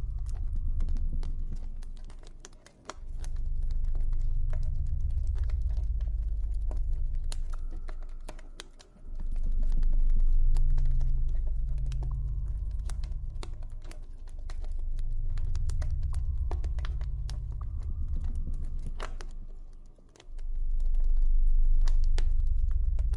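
Campfire crackling, with many small irregular pops and snaps, over a low ambient drone that swells and fades in long slow waves, dipping away briefly about three, nine and twenty seconds in.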